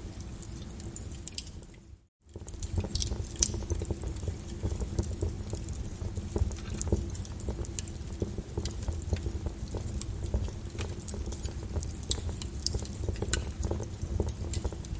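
Wood fire crackling in a fireplace: irregular sharp pops and snaps over a low steady rumble. About two seconds in the sound fades out briefly and cuts back in.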